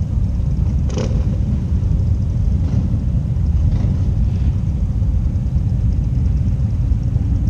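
Motorcycle engine idling with a steady low rumble, and a single click about a second in.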